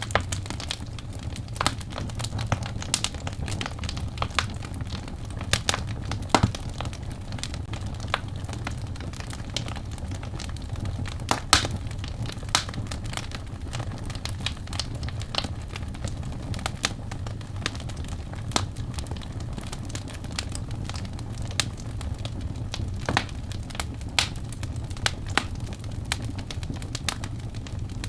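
Wood fire in a fireplace crackling, with irregular sharp pops and snaps over a steady low rumble of flame; a few pops stand out louder, one about eleven seconds in.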